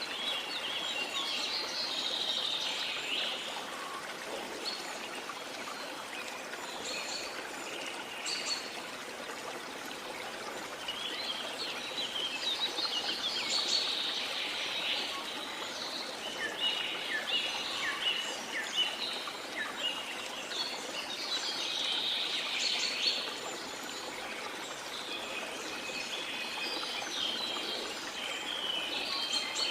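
Waterfall rushing steadily under tropical rainforest birds chirping and calling, their calls coming in bouts every few seconds.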